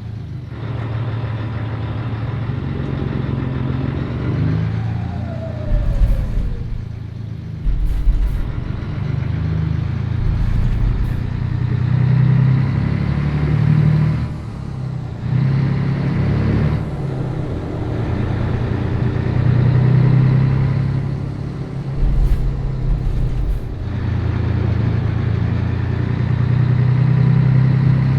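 Scania 113 truck's six-cylinder diesel engine running under way, its note swelling and dropping back several times, with short breaks and low thumps between the pulls.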